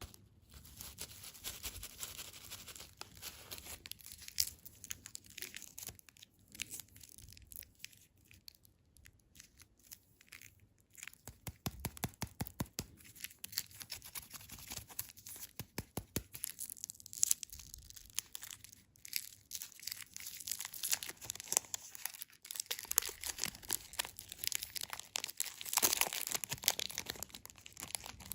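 Packaging being torn and crinkled: irregular crackling and rustling with rapid runs of short clicks, busier toward the end.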